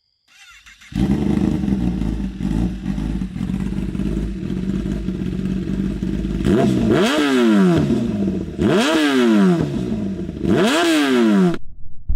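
Kawasaki ZX-10R inline-four sportbike engine idling through a loud exhaust, then blipped three times, each rev rising sharply and falling back to idle. The sound cuts off abruptly near the end.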